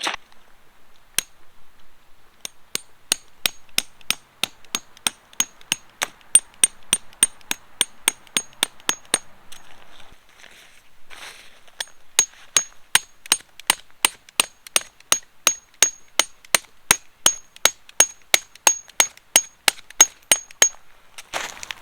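Hammer driving a metal tent peg: quick, even blows of about three a second, each with a bright metallic ring. There are two runs of strikes, with a short pause and a scuffle in between.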